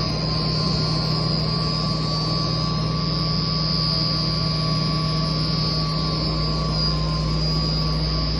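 Two electric-motor-driven HVAC water pumps running together, the standby pump brought on alongside the duty pump to meet demand. A loud, steady hum with a strong low drone and a thin high whine above it.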